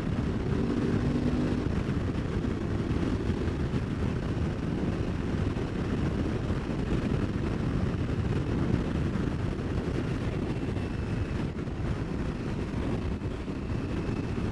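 Riding noise from an Aprilia Tuareg 660 parallel twin on the move: a steady low rumble of engine and wind. A faint engine note shows through in the first couple of seconds.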